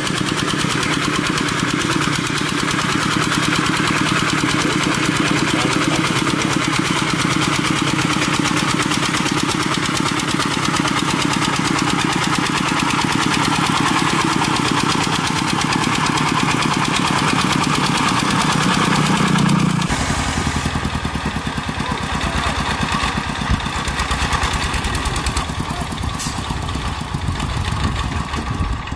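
Diesel engine of a two-wheel walking tractor (power tiller) running steadily under way. About two-thirds of the way through, the sound switches abruptly to another engine with a rougher, more uneven running note.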